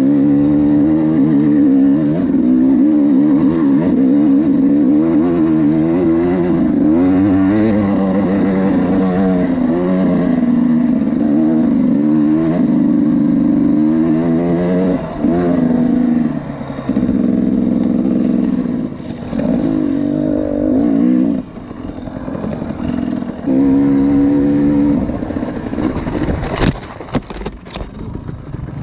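Enduro motorcycle engine revving up and down under throttle. In the second half it drops away and comes back in short pulls. A quick clatter of knocks comes near the end.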